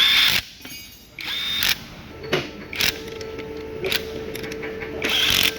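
Several short bursts of mechanical tool noise, the loudest at the start, about a second in and near the end, with a faint steady hum joining about two seconds in.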